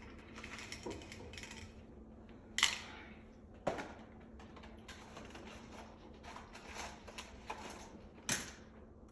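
A few sharp clicks over quiet room sound: three louder ones, about a third of the way in, a second later, and near the end, with fainter ticks between.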